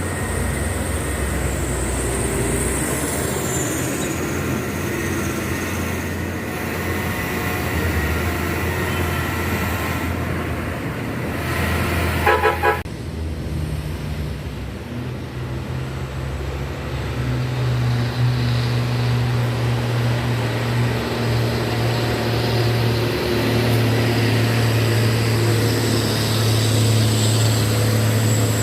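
Diesel truck engine labouring up a steep climb, a steady low drone that strengthens in the second half. A short horn toot about twelve seconds in.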